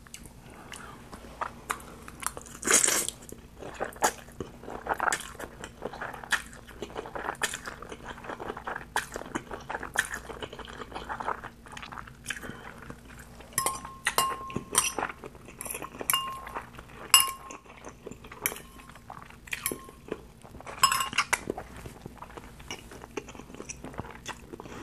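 Close-miked chewing of spicy instant noodles, with many short wet clicks from the mouth and a metal fork clinking against a glass bowl, including a run of short ringing clinks about halfway through.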